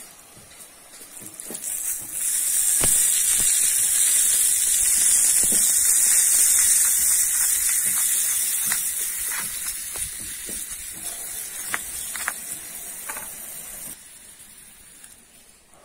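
Food sizzling in a small aluminium pan over a wood fire as onions, red chilli and chopped tomatoes fry. A loud hiss starts about two seconds in and slowly dies down, with light clicks of a spoon stirring against the pan.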